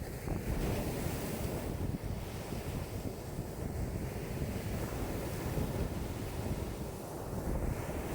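Wind-driven waves breaking and washing on a lakeshore, with strong wind buffeting the microphone as a low rumble. The level swells and eases every few seconds.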